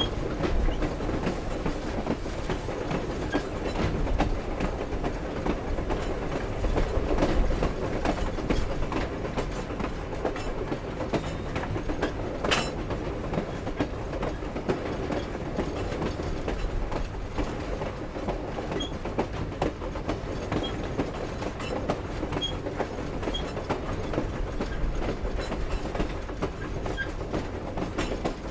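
Steam-hauled passenger train cars rolling along steadily: wheels clicking over the rail joints and cars clanking, with one sharp knock about twelve seconds in.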